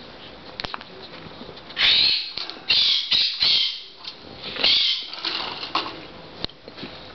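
Quaker parrots (monk parakeets) giving a run of harsh squawks between about two and five seconds in, with small clicks and scratches around them.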